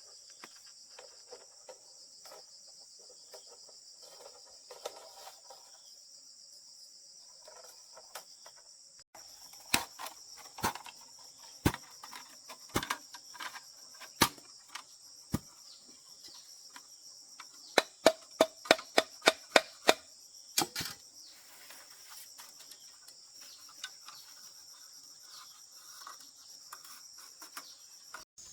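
Crickets chirring steadily. Through the middle come sharp knocks of a tool striking, irregular at first, then a quick run of about eight strikes in a row, roughly four a second.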